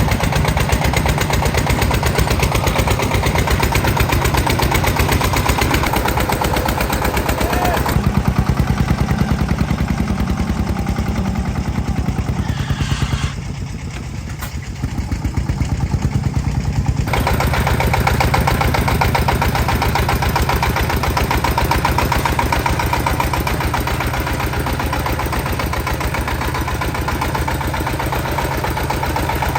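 Tractor engine running with a fast, even chugging beat, dropping quieter for a few seconds around the middle.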